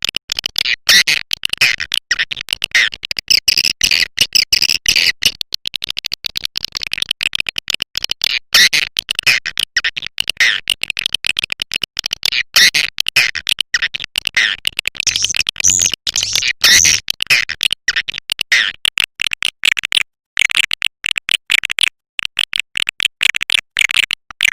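Swiftlet call recording: a dense, rapid chatter of clicks and high chirps, with a couple of brief breaks. It is a lure call track (suara panggil) played to draw swiftlets into a swiftlet house.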